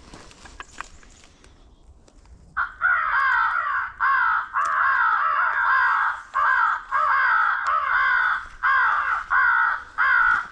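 Faint rustling, then about two and a half seconds in a crow caller starts a loud, fast string of crow caws. The caws come in chained bursts with short breaks. It is the hunters' call, sounded to draw crows in.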